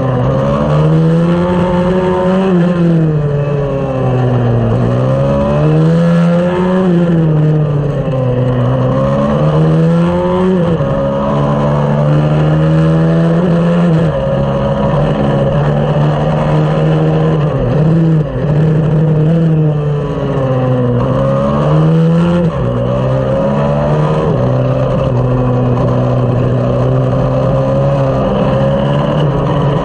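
A 140 cc racing minibike engine running hard, its pitch climbing and dropping over and over as it accelerates, shifts and slows for corners.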